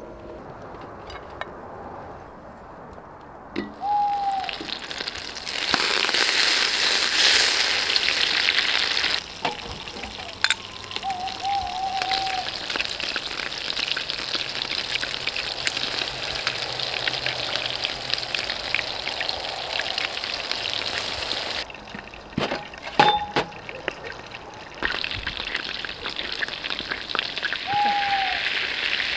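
Food frying in hot oil: a steady crackling sizzle sets in about four seconds in and is loudest soon after. Near the end it breaks off briefly, with a few sharp utensil-like knocks, then resumes.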